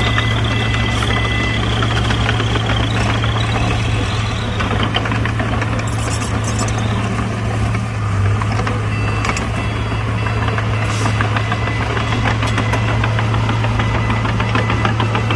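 Heavy diesel earthmoving machinery running with a strong steady low drone. A high whine stops about four seconds in, and a few sharp metallic clanks follow.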